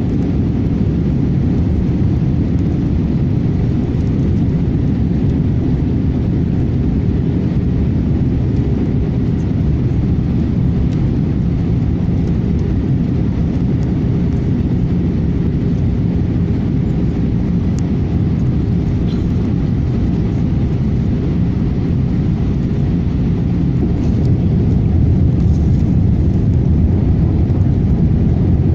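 Steady low rumble of an Airbus A318 airliner in flight: jet engines and rushing air, getting a little louder near the end.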